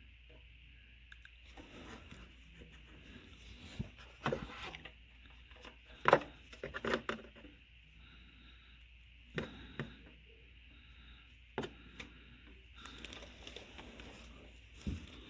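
Hands-on work noises: scattered sharp clicks and knocks, the loudest about six seconds in, with stretches of scraping and rustling between them.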